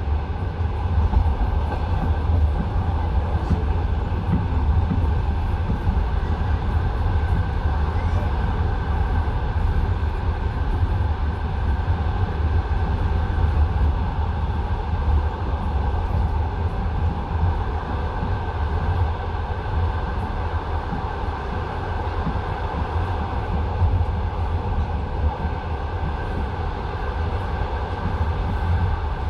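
Passenger railway carriage running along the track, heard from inside the car: a steady low rumble with the knocking of wheels on the rails.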